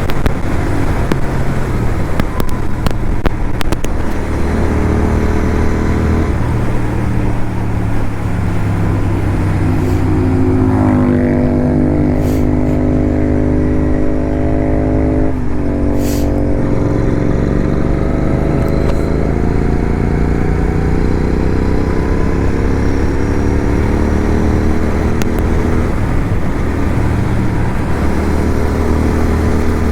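Motorcycle engine running on the move over a steady rush of road and wind noise. Its note climbs about ten seconds in and holds, drops suddenly around the middle, then rises steadily again as the bike accelerates.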